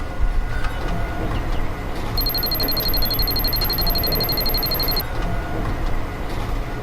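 Small geared model motors running with a steady mechanical whir. A rapid, high electronic beeping starts about two seconds in and stops abruptly about three seconds later.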